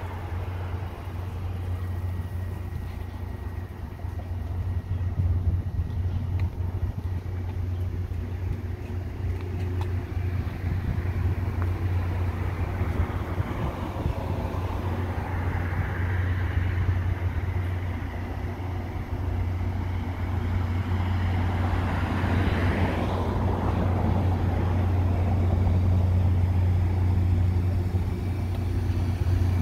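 Standing passenger train idling: a steady low hum from its running equipment, with a brief swell of broader noise twice in the middle.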